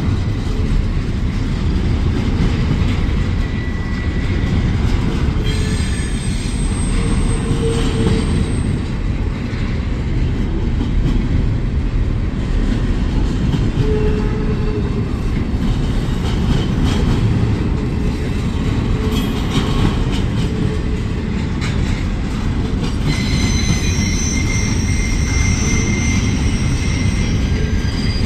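Union Pacific double-stack intermodal well cars rolling past with a steady rumble of steel wheels on the rails. Thin, high-pitched wheel squeals come and go, most plainly as several overlapping squeals near the end.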